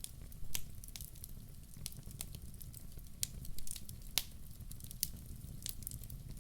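Wood fire burning in a fireplace: a steady low rumble of flames with irregular sharp crackles and pops, a few louder ones standing out.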